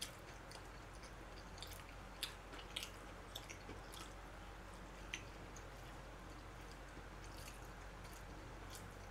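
A man chewing a mouthful of food, faint wet smacks and small mouth clicks, most of them in a cluster from about one and a half to five seconds in, over a low steady hum.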